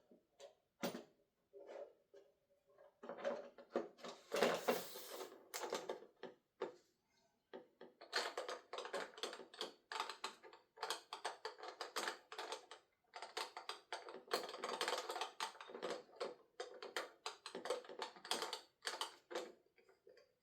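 Irregular clicks, knocks and rustling of lathe parts and packaging being handled, with a denser rustle about four to six seconds in. There is no motor sound.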